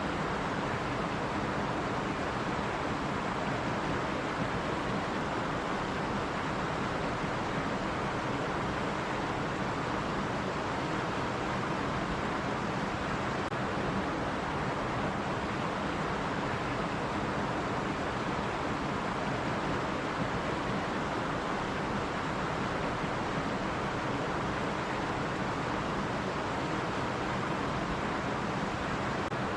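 Stream water running over rocks: a steady, even rushing with no change in level.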